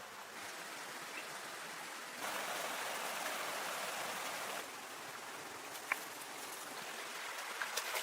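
Steady rush of flowing stream water. It steps louder about two seconds in and eases back a little past the midpoint. A single sharp click comes near six seconds, and a few faint ticks come near the end.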